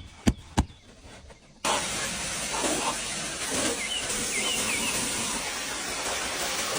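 A few sharp clicks, then about a second and a half in a pressure washer's water spray starts suddenly and runs as a steady hiss.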